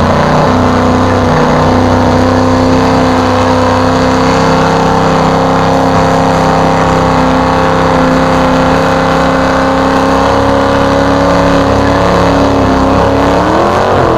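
Mud-bog truck engine held wide open at high revs for a long pull, its pitch creeping slowly upward, then dropping and wavering near the end as the throttle comes off.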